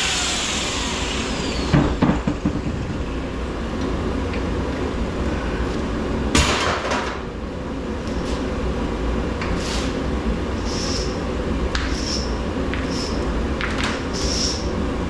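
Scrap metal being handled and knocked about: a couple of heavier knocks, then a run of short, high metallic clinks about once a second, over a steady low hum.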